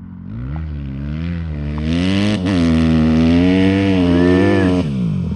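A 150R dirt bike's engine revving hard as it climbs. The revs build, ease off briefly, run loud and high for a couple of seconds, then drop away near the end.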